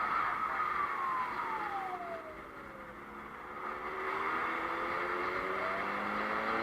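Car engine and road noise heard through a dashcam. A whine rises in pitch, then falls over the next three seconds, and the engine tones climb again about four seconds in as the car picks up speed.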